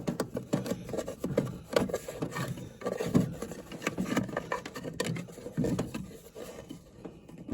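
Irregular rubbing, scraping and clicking as a furnace draft inducer is handled and inspected by hand; it is being removed because it has failed, with chunks broken out of it.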